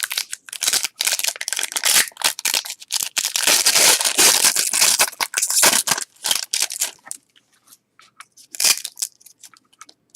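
A trading card pack wrapper being torn open and crumpled: dense crinkling and tearing for about seven seconds, then a few scattered crackles as the handling eases.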